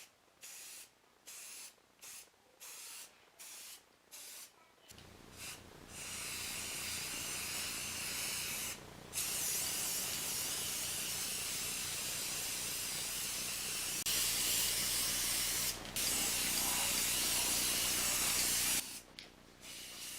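Aerosol can of hot pink gloss spray paint: a string of short, quiet bursts, then from about six seconds in a long steady hissing spray, broken by two brief pauses and stopping about a second before the end.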